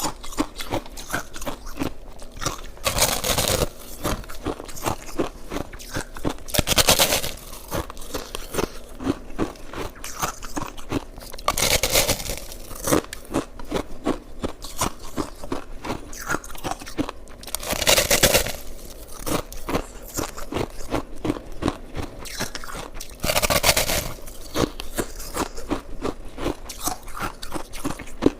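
A person chewing and crunching shaved ice up close: a dense, steady crackle of small cracks, with a louder, longer crunch five times, every five or six seconds.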